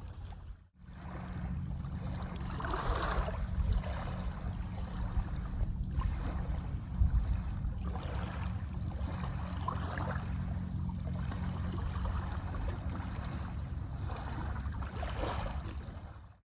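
Wind buffeting the microphone in a steady low rumble, with small lagoon waves lapping against the shore in soft swashes every couple of seconds.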